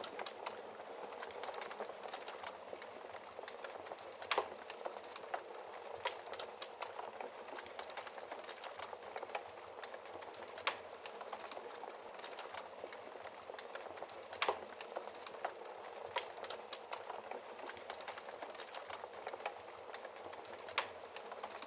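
Wood fire crackling in a fireplace: a steady hiss of burning with frequent small crackles and about four louder, sharp pops spread through it.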